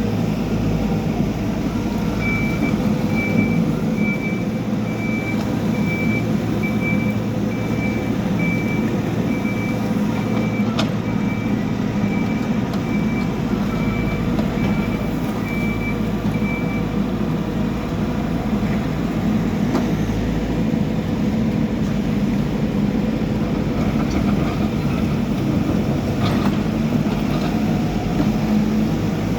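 Backhoe loader's diesel engine running steadily. Its reversing alarm sounds a string of evenly spaced short beeps from a couple of seconds in until a little past halfway, then stops while the engine keeps running.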